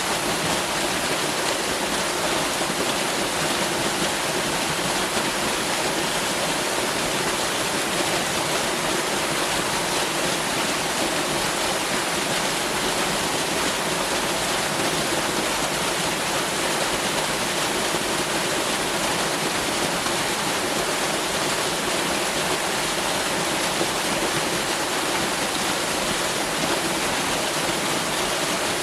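Waterfall: water pouring down steadily in an unbroken rushing hiss that spreads across the highs and mids, with no change in level.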